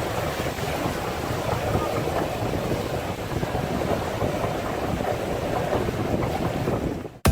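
Steady, dense rushing noise with wind buffeting the microphone, cutting off suddenly near the end.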